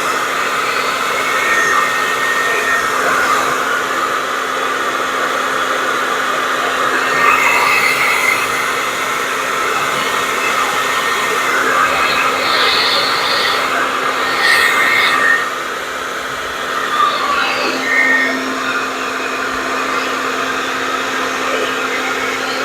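Handheld hair dryer running steadily, blowing air over wet acrylic pour paint; the sound dips briefly about two-thirds of the way through.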